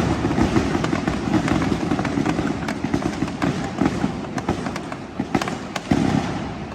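Fireworks going off in a dense, continuous barrage of bangs and crackles over a deep rumble, with a louder burst near the end.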